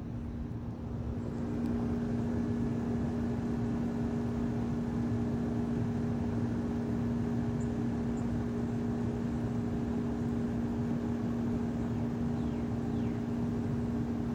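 A steady machine hum that holds one pitch, over a low rushing noise, growing slightly louder about two seconds in.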